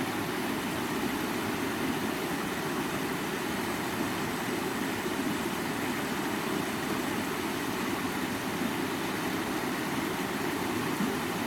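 Stream water running over rocks: a steady rush with no breaks, fullest in its low-middle range.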